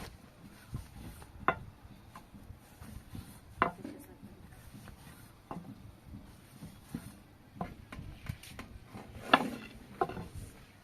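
A few sharp knocks and clinks at irregular intervals, the loudest near the end, with quieter rubbing and clatter of objects being handled between them.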